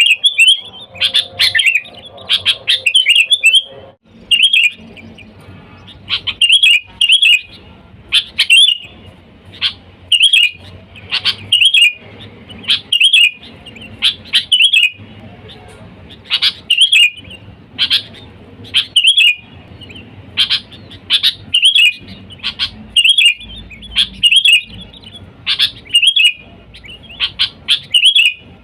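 Sooty-headed bulbul (kutilang) calling loudly: short phrases of quick notes repeated about once a second, with brief pauses between them.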